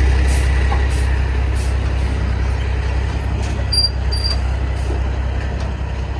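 Dump truck engine running with a steady low drone, slowly getting quieter. Two short high beeps sound about halfway through.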